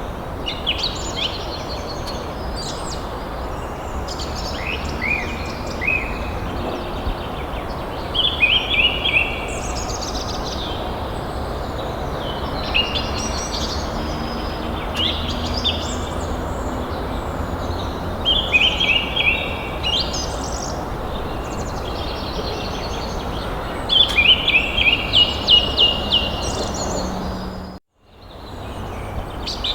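Birds chirping and singing in repeated short phrases over a steady background hiss. The sound cuts out completely for a moment near the end.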